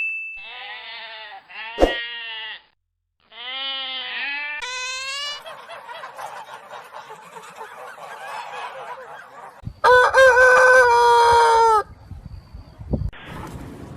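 A string of separate farm-animal calls, cut one after another, with a rooster crowing for about two seconds some ten seconds in. The earlier calls are shorter, wavering calls.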